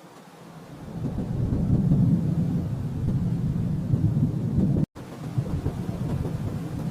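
Thunder rolling: a low rumble that swells up about half a second in, cuts out for an instant near five seconds, then rumbles on.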